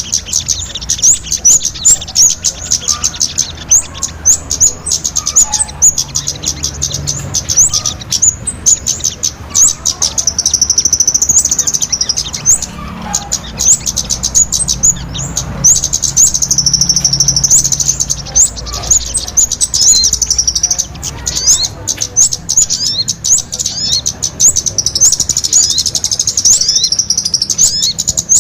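Small-bird lure call: rapid, high-pitched chirping and twittering of small songbirds, packed densely together, breaking into stretches of continuous trilling several times.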